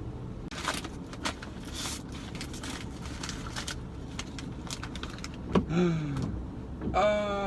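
Steady low hum of a vehicle's engine heard inside the cab, with scattered clicks and rustling handling sounds. A short voiced sound comes about five and a half seconds in, and a voice starts near the end.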